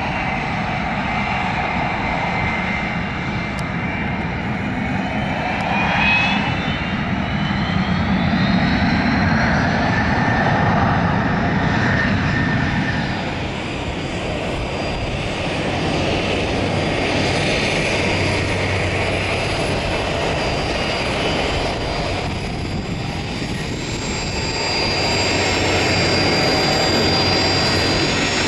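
Jet aircraft engines running, with a continuous rush and a turbine whine. The whine glides up in pitch about six seconds in, then settles into steady high whistling tones later on.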